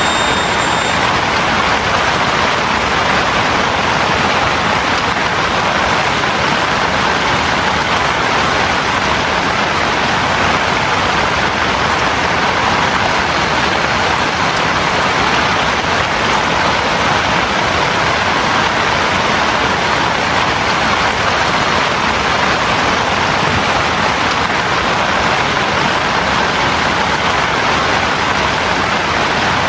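Heavy rain falling in a steady, dense downpour, with no let-up.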